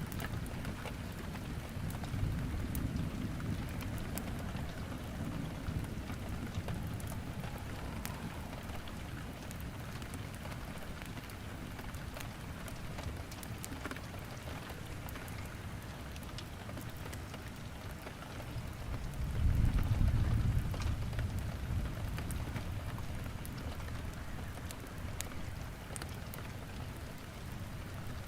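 Steady rain on a surface with sharp crackles and pops from burning firewood in a fireplace scattered throughout. A low rumble swells twice, once near the start and more loudly about two-thirds of the way in.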